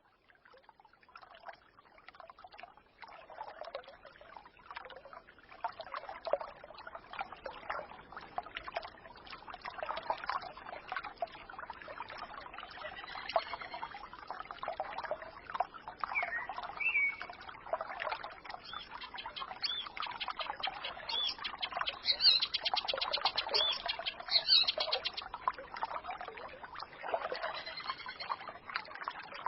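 A small forest stream trickling and gurgling, fading in over the first few seconds, with songbirds singing over it in short whistled phrases and a rapid high trill about two-thirds of the way through.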